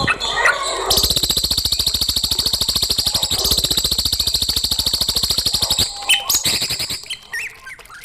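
Songbird singing a very fast, high-pitched trill of closely repeated notes that lasts about five seconds, followed by a few short separate notes.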